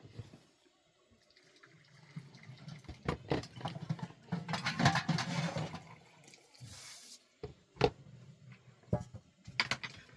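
Water being poured and splashing, swelling over a few seconds and then easing off, with scattered knocks of handling.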